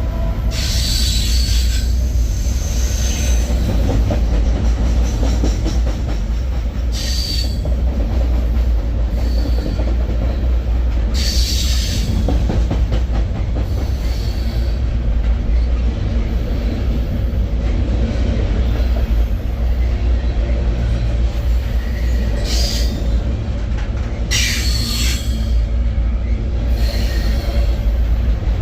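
Freight train rolling, heard from aboard: a steady low rumble with about five short bursts of high-pitched wheel squeal.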